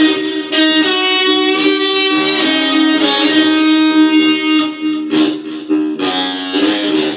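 Guitar playing a blues piece: ringing sustained notes and chords, with new notes picked every second or so.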